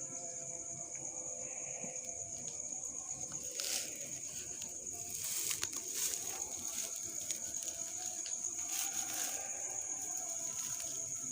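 A steady high-pitched insect drone, with a few brief rustling noises about four and five to six seconds in.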